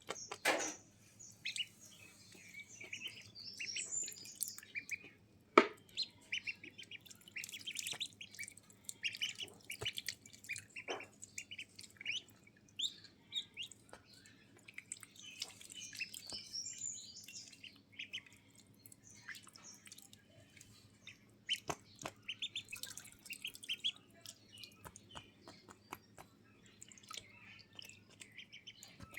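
Small birds chirping: many quick, high-pitched chirps and tweets, overlapping almost without a break. A few sharp clicks or taps cut in, the loudest about five and a half seconds in.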